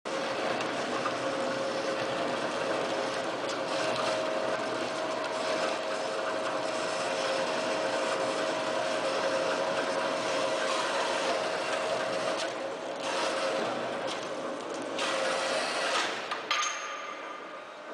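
Tire recycling machinery running: a dense, steady grinding noise with a steady hum under it, shifting and dipping over the last few seconds.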